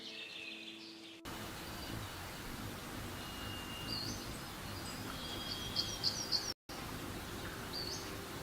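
Several wild birds calling in short high chirps and whistles, including a level whistle a few seconds in and a cluster of louder hooked chirps around six seconds, over a steady hiss of forest and insect background. The background changes abruptly about a second in and drops out for an instant just past six seconds.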